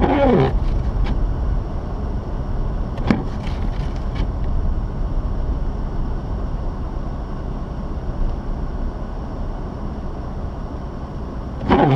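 Mazda RX-8 under way, a steady low rumble of engine and road running throughout. A loud sound falling in pitch comes right at the start, a sharp click about three seconds in, and another loud sound begins just before the end.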